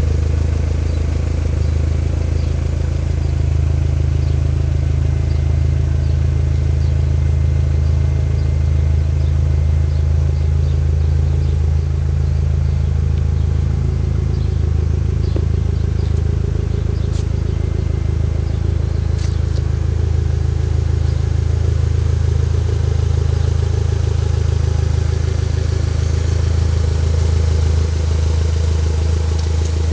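Toyota MR2's engine idling steadily, its low, even note heard through the exhaust.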